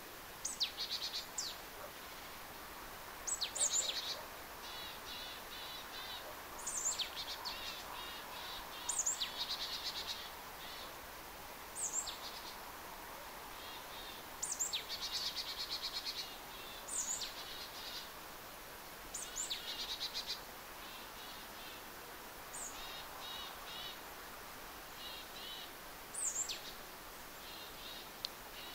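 A songbird singing, a phrase every two to three seconds, each opening with a high, sharply falling note and running into a fast trill, over a steady faint hiss.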